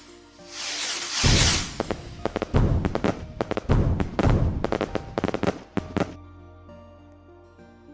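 Fireworks crackling and banging in a rapid, dense volley from about a second in, dying away around six seconds in, with music playing underneath.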